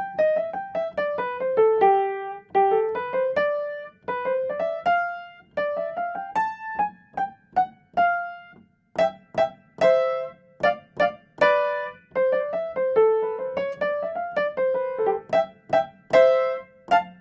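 Solo piano playing a melody of single struck notes, each decaying after it is struck.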